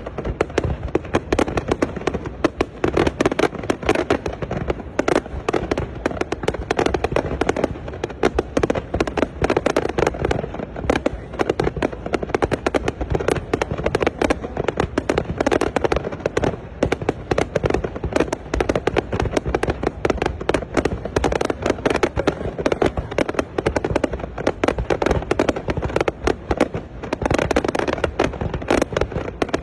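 New Year fireworks display, rapid continuous bangs and pops from shells bursting overhead, many per second with no pause.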